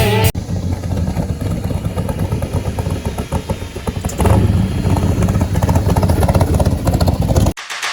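A vehicle engine running with a low, rapidly pulsing rumble that gets louder about four seconds in, then cuts off suddenly near the end.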